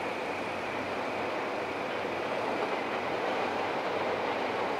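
Steady running noise of a train in motion, an even rumble and rush with a faint high whine and no distinct events.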